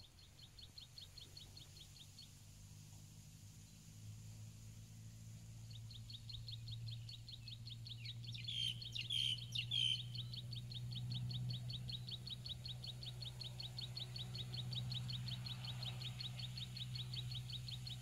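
Garden birdsong: a high, rapid, evenly repeated chirp, several a second, that breaks off after two seconds and resumes about six seconds in, with three louder bird chirps about nine seconds in. A low steady hum runs underneath.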